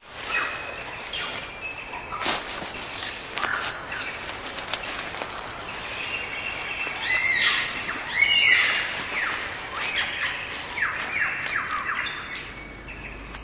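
Bird song, varied and elaborate: whistled phrases, sharp clicks and runs of quick descending notes, one after another.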